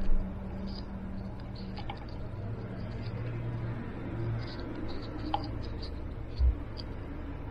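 Faint light clicks and handling noises over a low steady hum, with one dull thump about six seconds in.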